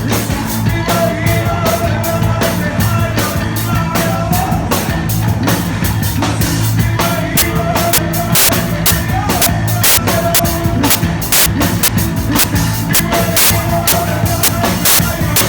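Live rock band playing loud, with a heavy droning bass and a steady beat of drums and cymbals.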